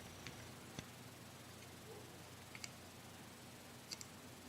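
Near silence with a few faint, sharp clicks: ohmmeter probe tips touching the solder pads of a circuit board during a continuity check.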